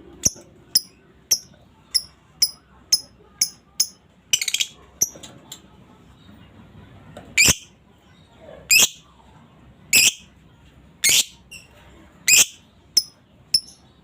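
Female lovebird calling: a run of short, sharp, high chirps about two a second, a quick rattled burst, then louder, longer shrill calls about once a second.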